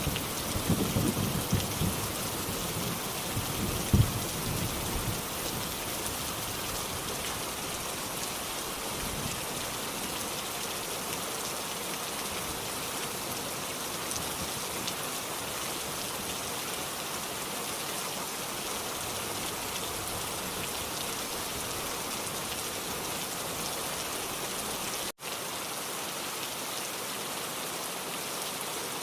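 Steady rain with thunder rumbling over the first few seconds and a sharper crack about four seconds in, then an even rain hiss. The sound cuts out for an instant near the end.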